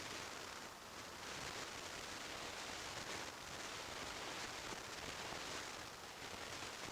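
Steady rushing wind and road noise from a motorcycle at highway speed, picked up by a mounted action camera, with no distinct engine note standing out. The level dips slightly about a second in and again near six seconds.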